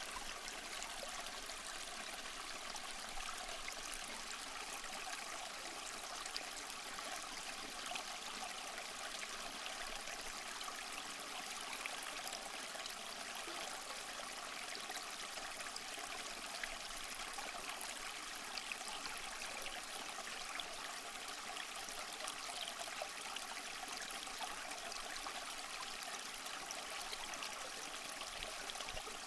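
Small waterfall splashing and trickling over mossy rocks: a steady, even rush of falling water with small splashes throughout.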